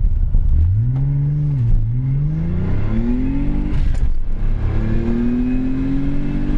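Nissan 300ZX twin-turbo V6 with straight pipes and a Greddy exhaust, accelerating hard at full throttle. The revs climb, drop at a gear change, then climb again, three times in all. About four seconds in, a gear change comes with a short rush of noise.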